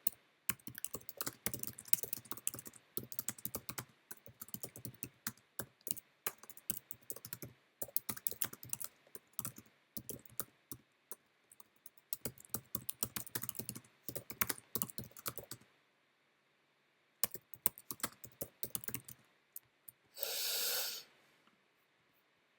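Fast typing on a computer keyboard, a quick run of key clicks that stops for a moment and then resumes briefly. Near the end comes one loud, noisy sound lasting under a second.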